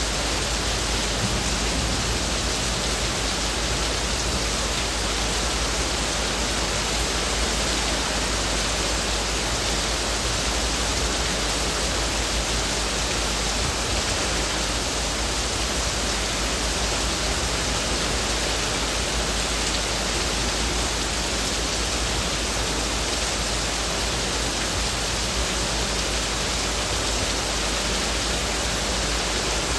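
Heavy rain falling on leaves: a dense, steady hiss with no separate drops or changes.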